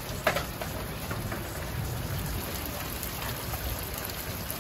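Heavy rain falling steadily onto gravel, leaves and metal objects, an even hiss of many drops. There is a single sharp tap just after the start.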